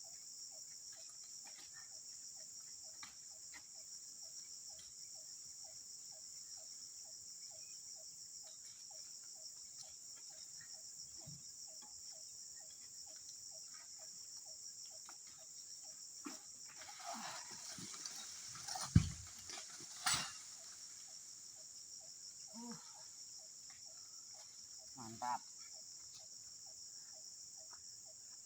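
Evening insect chorus: a steady high-pitched buzzing, with a soft pulsing call about twice a second through the first half. Past the middle comes a spell of rustling with two loud thuds about a second apart, then a couple of fainter knocks.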